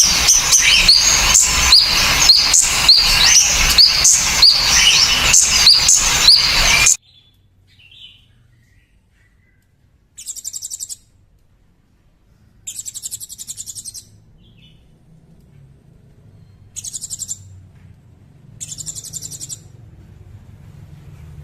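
Songbird recording: loud, dense chirping song with quickly repeated rising notes, which cuts off abruptly about seven seconds in. It is followed by four short, high, buzzy trills at intervals of a couple of seconds over a faint low hum.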